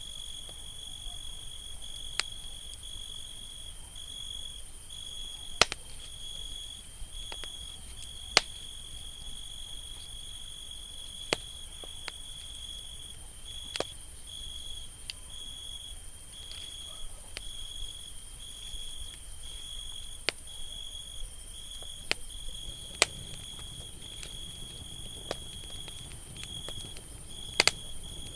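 Campfire crackling, with sharp pops scattered irregularly, over a steady high cricket trill that breaks off briefly about once a second.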